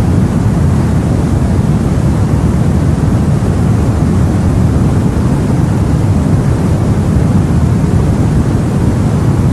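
Steady, loud low rumble of the sea heard on board a boat, with no separate wave breaks or other distinct sounds.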